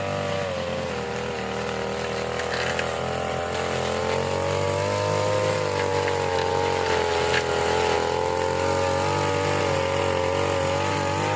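Small petrol engine of a grass-cutting machine running steadily at working speed, its pitch wavering slightly up and down.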